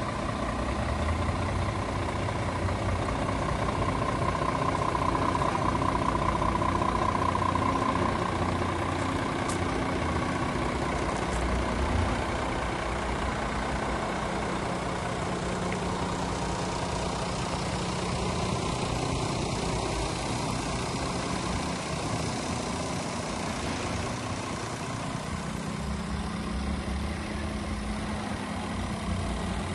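Scania R500 truck's 13-litre six-cylinder diesel engine idling steadily.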